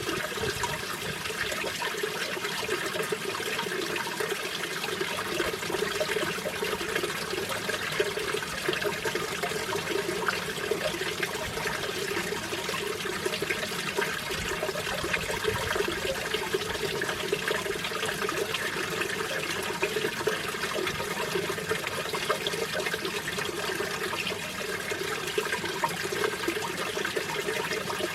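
Mountain stream water rushing and splashing over rocks, a steady even rush with no breaks.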